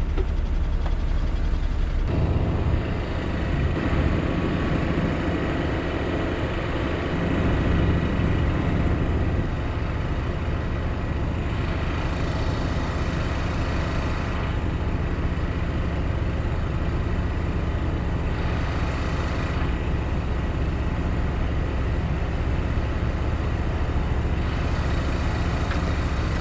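Diesel truck engine running steadily, with a louder low rumble from about two seconds in, during a crane-wrecker recovery of a loaded cargo truck stuck on a soft path.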